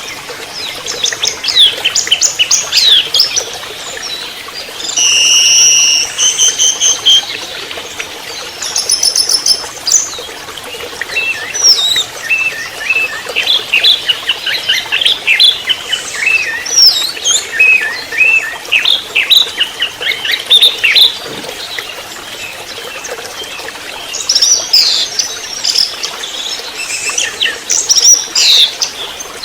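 Juvenile orange-headed thrush (anis merah trotol) singing a long rambling twittering song of quick chirps and squeaky notes. It gives a couple of short held whistles, around five and nine seconds in.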